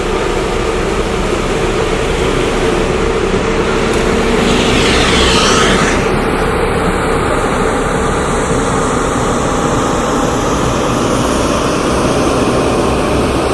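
Heavy engines running steadily, with a louder high rushing sound for about two seconds near the middle.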